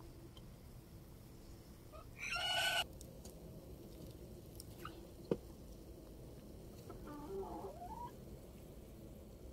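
Bird calls: one loud, harsh call about two seconds in, then softer wavering calls near the end. A single sharp click comes in between.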